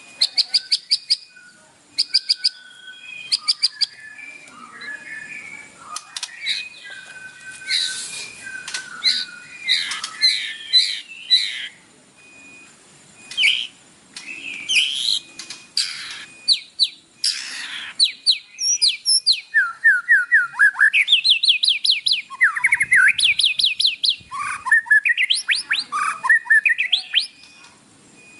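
White-rumped shama (murai batu) singing a loud, varied song. It opens with short rapid rattles of clicks, moves through whistled and chattering phrases, and ends in fast runs of rising and falling notes.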